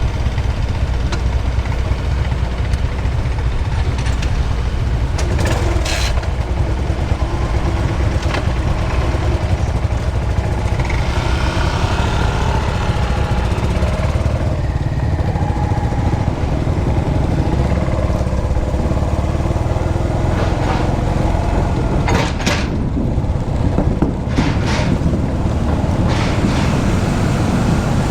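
Steady low engine rumble, with a few short sharp clicks about six seconds in and again after twenty seconds.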